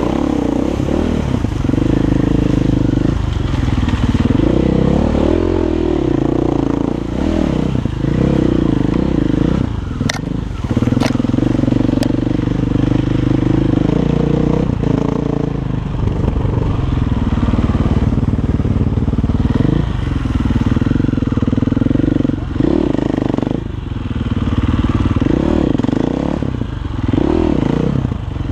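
Single-cylinder 500 cc four-stroke Six Days enduro motorcycle through an Akrapovič exhaust, revving up and down repeatedly as it is ridden. A few sharp clicks come in the middle.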